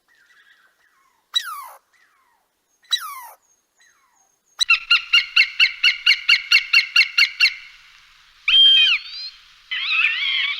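Bird calls: two falling whistles, then a quick even run of about a dozen chirps, another call, and warbling song starting near the end.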